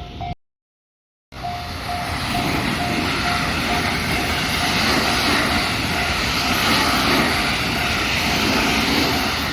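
Japanese level-crossing warning bell dinging about twice a second while a train passes through the crossing, a loud steady rush of wheels on rails. The sound drops out to silence for about a second near the start.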